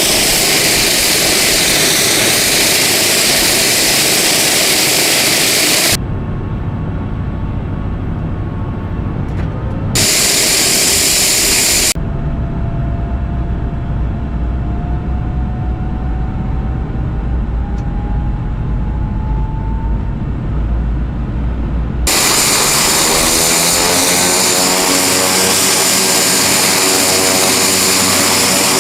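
TBM 940's Pratt & Whitney PT6A-66D turboprop running after start, a loud steady whine and hiss. The sound switches abruptly several times between a bright hissing tone and a deeper, duller rumble. Near the end, a set of tones climbs slowly in pitch.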